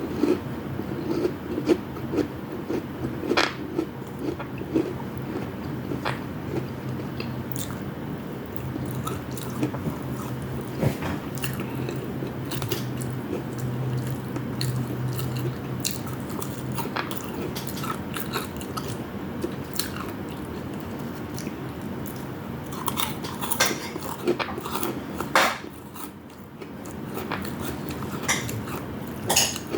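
Close-miked chewing and crunching of deep-fried food, with many sharp crisp clicks scattered through and a louder cluster of them near the end.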